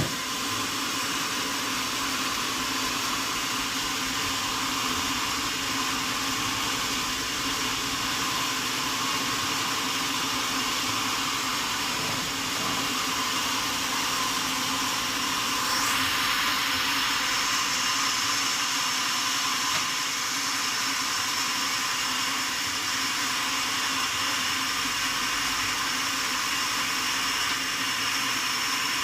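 A sawmill saw running steadily with a hissing, machine-like noise. About halfway through, a high, steady whine joins in and holds until near the end.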